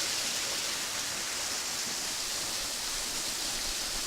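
Steady rushing of a waterfall, a low dry-season flow of water falling onto rock.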